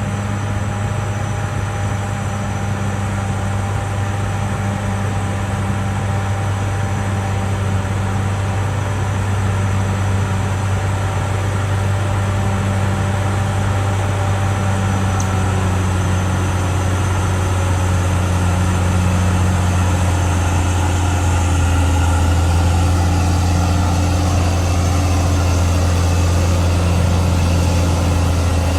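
Diesel engine of a CAT D6R XL bulldozer running steadily with a low drone; past the middle its note drops a little and it gets slightly louder.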